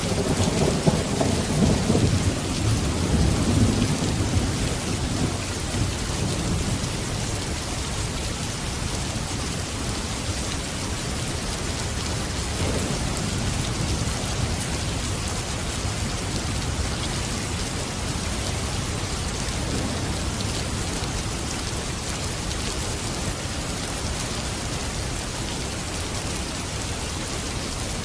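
Steady, heavy rain falling. A low rumble of thunder is heard in the first few seconds and dies away.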